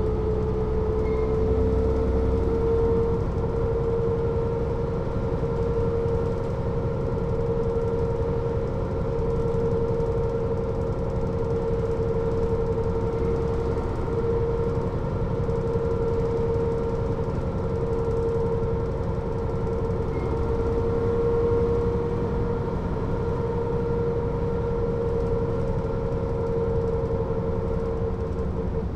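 Mercedes-Benz O 407 bus (1993) running at a steady speed: diesel engine and road rumble under a steady high whine from the drivetrain. The whine edges up slightly in the first couple of seconds, then holds level.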